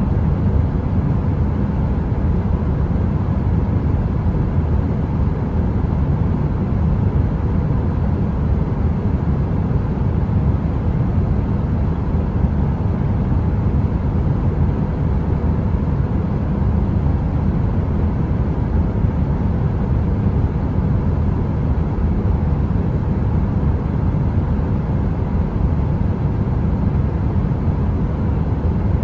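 Steady heater white noise: a deep, even rush weighted toward the low end, with a faint steady hum running through it and no crackles.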